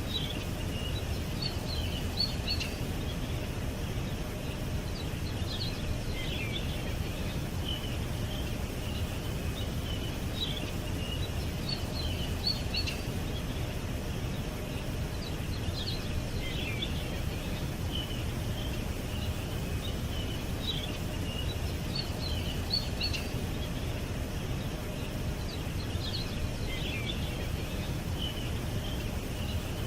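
Small birds chirping and twittering in short clusters of high calls, the same phrases coming back about every ten seconds, over a steady low rumble of outdoor background noise.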